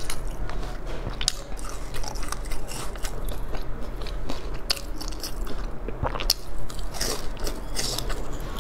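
A person chewing and biting food close to the microphone: irregular crunches and clicks, over a steady low hum.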